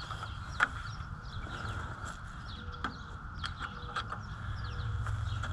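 Small birds chirping over and over in short falling notes, with a few sharp clicks, the loudest about half a second in, and a low rumble underneath.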